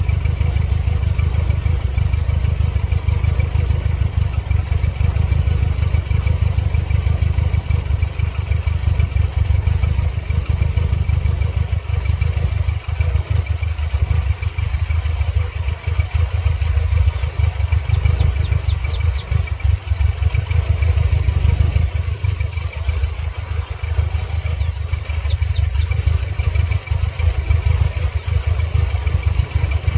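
A 1999 Mercedes-Benz C230 Kompressor's supercharged four-cylinder engine running at idle with a dense, rapid low pulse whose level dips irregularly now and then. The owner reports serious engine problems and a periodically flashing check engine light.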